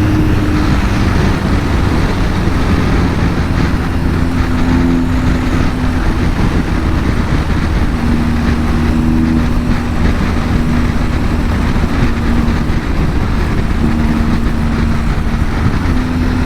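BMW R1250 GS Adventure's boxer-twin engine running steadily on the move, its note shifting a little up and down a few times, under heavy wind noise.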